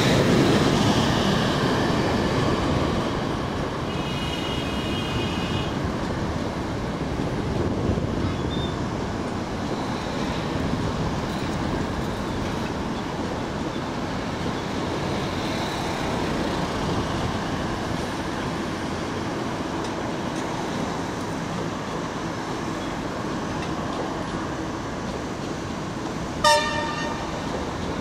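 Passenger coaches of a locomotive-hauled train rolling over the tracks, a steady rumble that eases off over the first few seconds and then holds level. A short, loud blast of a train horn sounds near the end.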